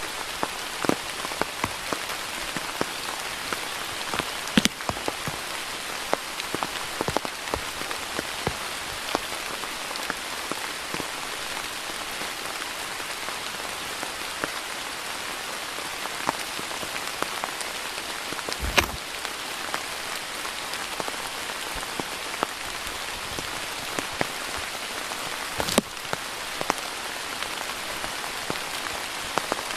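Steady rain falling, with many separate drops striking close by as sharp ticks. There are two louder knocks, about 19 and 26 seconds in.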